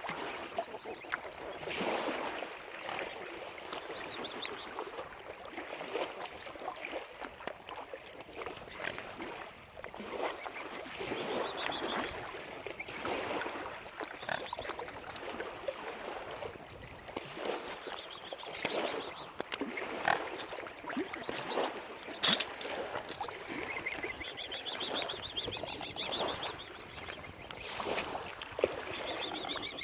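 A group of waterfowl calling, many short irregular calls overlapping, with higher trilled calls a little before the end.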